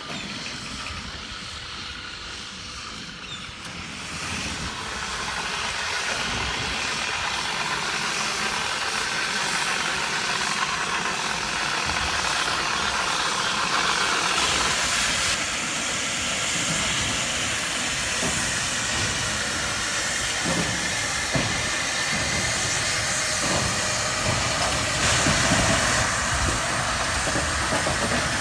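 Steam hissing steadily from the 1861 Robert Stephenson steam locomotive Caroline. It grows louder about four seconds in, with a few faint knocks.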